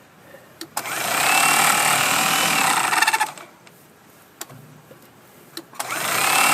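Mighty C powered stone trimmer running in two bursts while trimming the edge of a rock. Each burst opens with a rising whine and runs steadily for a couple of seconds. Sharp snaps come in the pauses between them.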